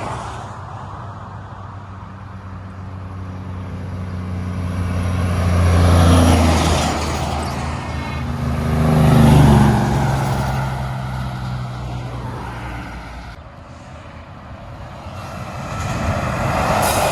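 Heavy trucks driving past on a road one after another, engine and tyre noise swelling and fading as each passes. Two go by close about six and nine seconds in, the engine pitch dropping as the second passes. Another draws near at the end.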